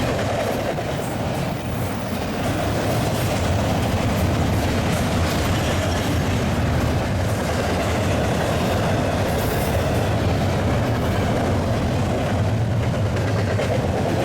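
Union Pacific freight train rolling past: a steady rumble of freight cars with the clickety-clack of wheels over the rail joints.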